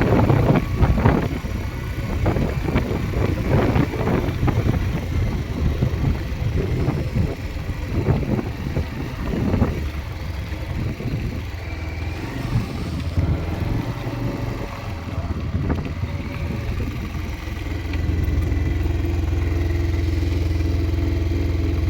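Motorcycle engine running while riding a rough dirt road, with clattering and an uneven engine note. About 18 seconds in it settles to a steady, even drone.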